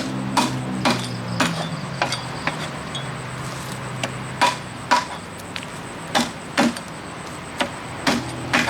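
Repeated sharp chopping knocks, roughly one or two a second and unevenly spaced, as barramundi are cut up on a cutting board for cleaning, over a steady low machine hum.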